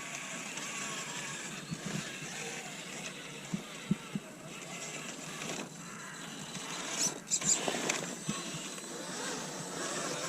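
Element Enduro Sendero SE RC crawler driving: its electric motor and gearbox whirr steadily, with a few sharp knocks, and a louder burst of knocks and scraping about seven seconds in as it climbs over obstacles.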